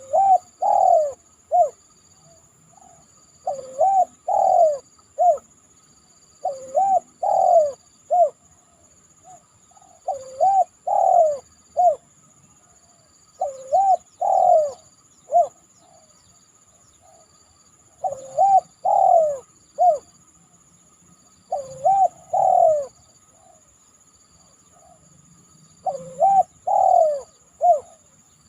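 Spotted dove (tekukur) cooing: a short phrase of three or four low coos, one long note swooping up and then down, repeated about every three seconds, eight times. A faint steady high-pitched hum lies underneath.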